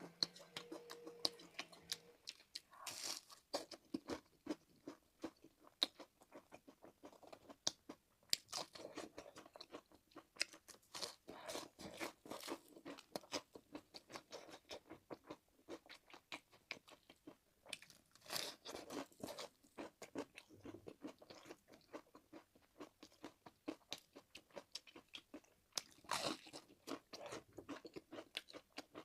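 Close-up eating sounds: a crisp fried glutinous rice cake being bitten and chewed, with steady wet chewing clicks and several louder crunching bites, about four in all.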